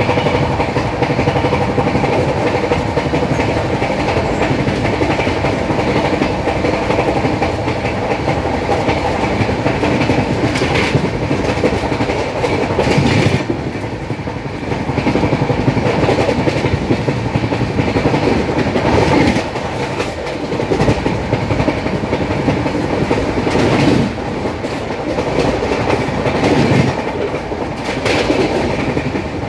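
LHB passenger coach running at 130+ km/h, heard from its open doorway: a steady, loud rumble and rush of wheels on rail. Now and then sharper clacks and thumps come in from the wheels running over rail joints and points.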